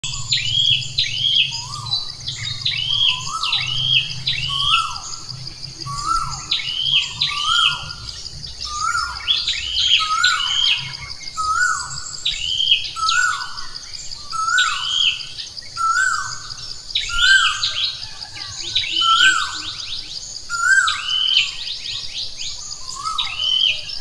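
Songbirds calling over and over: a lower slurred note about once a second, traded with higher arched chirps. A steady high insect trill runs underneath.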